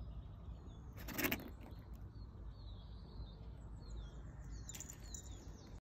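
Songbirds chirping repeatedly in short, falling calls over a steady low outdoor rumble. A brief, louder burst of noise cuts in about a second in, with a smaller one near the end.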